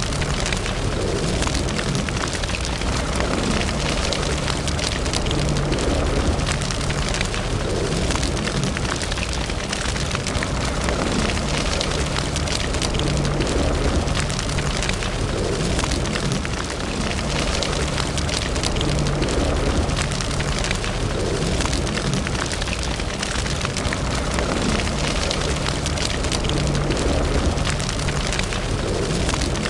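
A wood fire burning in a fireplace: a steady rush of flame, with frequent small crackles and pops from the burning logs.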